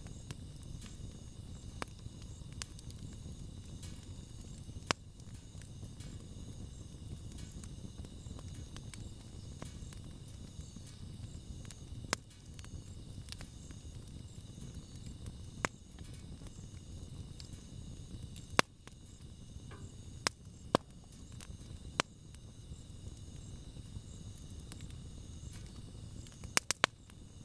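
Wood campfire burning: a low steady rumble with sparse, sharp crackles and pops from the burning wood, and a quick cluster of several pops near the end.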